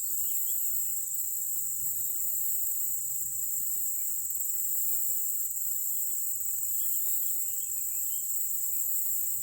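Steady high-pitched insect chorus of crickets or similar insects, with scattered short bird chirps over it, mostly in the second half.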